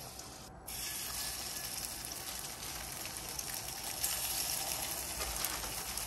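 Halibut burger patties sizzling as they fry in butter in a hot cast iron pan; a steady sizzle that grows a little louder about four seconds in as another patty is laid in.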